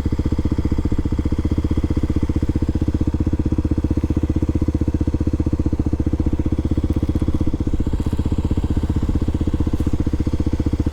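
Kawasaki KLX300SM's single-cylinder four-stroke engine running at a steady, unchanging throttle, its firing pulses even throughout.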